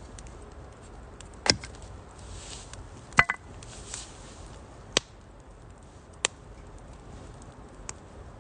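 Firewood burning in a Uniflame Nature Stove Large, a small steel wood stove: sharp pops and cracks of the burning wood, about five of them a second or two apart, over a soft steady hiss of the fire. The second pop rings briefly.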